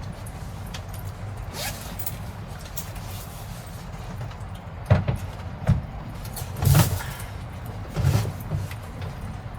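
Typhoon wind and rain buffeting a small kei-truck camper, heard from inside as a steady low rumble. About halfway through come a few sharp knocks and thumps.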